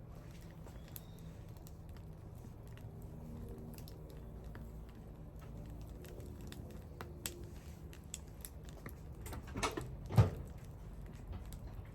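Wood bonfire crackling, with scattered small pops and a low steady hum, and one louder knock about ten seconds in.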